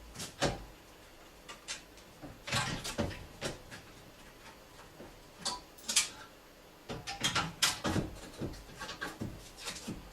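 Irregular clicks, knocks and scrapes from hand tools and parts being handled during reassembly of a car's radiator cooling fan, some coming in short clusters.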